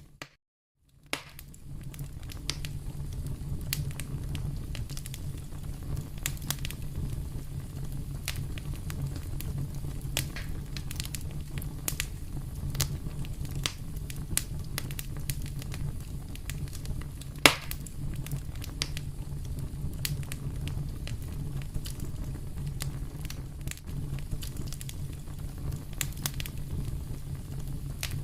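Wood fire crackling in a fireplace: a steady low rumble of flames with many small scattered crackles and one loud pop about 17 seconds in. The sound drops out to near silence for about the first second.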